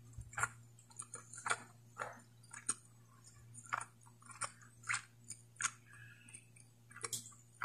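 Close-miked mouth sounds of a person chewing a last mouthful of spicy pork curry: wet clicks and lip smacks at an irregular pace, one or two a second.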